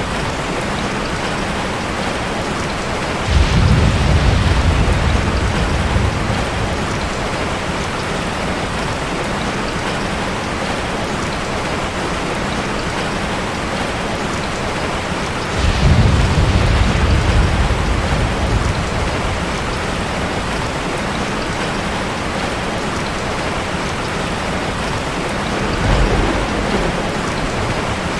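Heavy rain falling steadily, with three low rolls of thunder: one a few seconds in and one a little past halfway, each lasting about three seconds, and a shorter, weaker one near the end.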